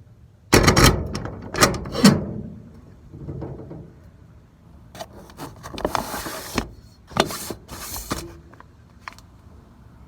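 Packaging handled and opened by hand: a series of short rustling, scraping noises, thickest in the first two seconds and again between about five and eight seconds in.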